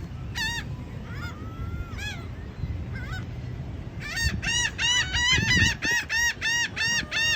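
Gulls calling: a few scattered calls, then from about four seconds in a fast run of repeated arching calls, several a second.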